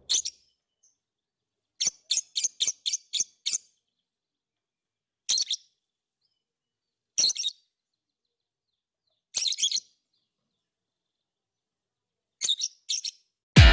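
Lovebird giving short, high-pitched chirps: a quick run of about six calls near two seconds in, then single calls every two seconds or so and a short cluster near the end.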